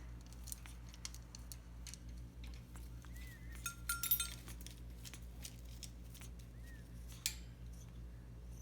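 African grey parrot making scattered soft clicks and clinks, with a few short, faint whistles about three seconds in, a brief steady tone around four seconds, and another short whistle near seven seconds.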